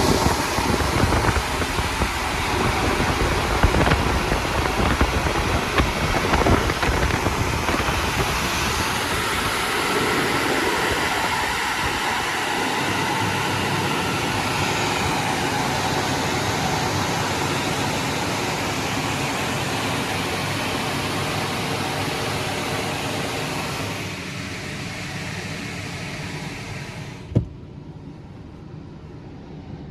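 Istobal M1 car wash dryer blowers, heard from inside the car, running with a steady rush of air, then winding down and cutting off near the end, followed by a single sharp knock.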